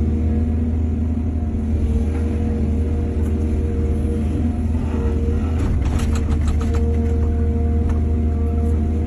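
Excavator diesel engine running steadily with a deep, even hum, and a quick series of clattering knocks about six seconds in.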